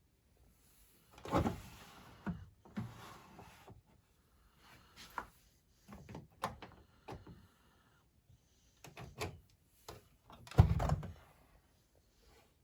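Irregular knocks and thumps of a Beko WMD 46160 front-loading washing machine's door being opened and handled after the wash cycle. The loudest thump comes about ten and a half seconds in.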